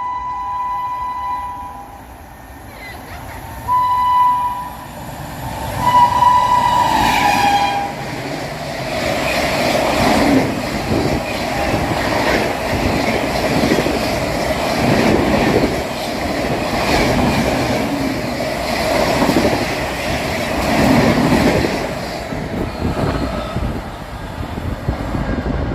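Indian express train's locomotive sounding three horn blasts, the last one sliding down in pitch, then the train passing at high speed, its wheels clattering rhythmically over the rail joints for about seventeen seconds.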